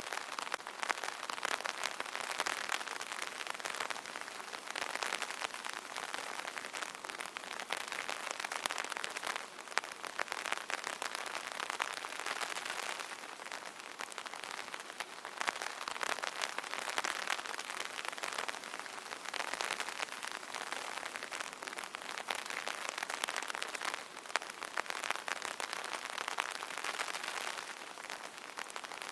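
Steady rain pattering on an open umbrella's fabric canopy, a dense crackle of drop hits that swells and eases every few seconds.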